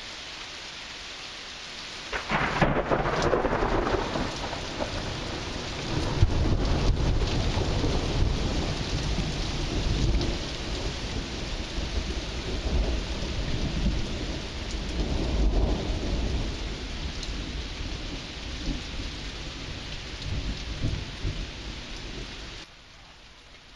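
Steady rain, then about two seconds in a sudden thunderclap breaks into long, low rolling thunder that swells and eases over some twenty seconds. The sound drops away suddenly near the end, leaving fainter rain.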